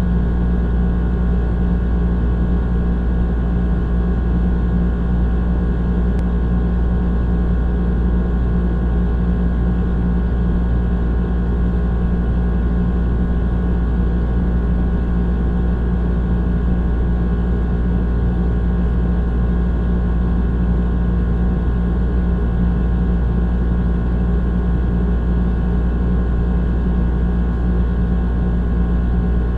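Old air conditioner running: a steady low hum with a droning tone, unchanging throughout.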